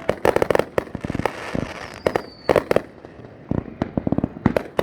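Consumer fireworks going off in rapid volleys: dense clusters of sharp bangs and pops with crackling between them, and a short whistling glide about two seconds in.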